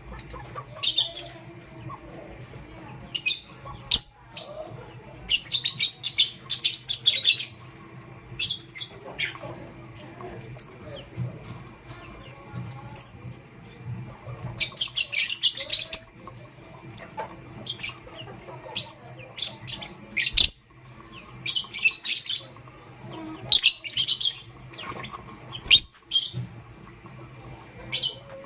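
Lovebirds chirping in short bursts of rapid, high-pitched chirps every second or two, over a faint steady hum.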